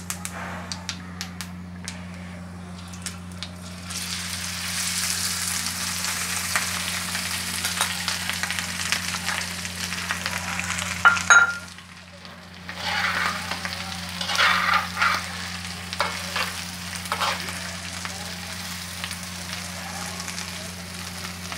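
Boiled, diced potatoes frying in hot oil and cumin seeds on an iron tawa: a few light clicks, then a sizzle that swells about four seconds in. A metal slotted spoon scrapes and knocks against the pan as they are stirred, with one sharp clank about halfway through. A steady low hum runs underneath.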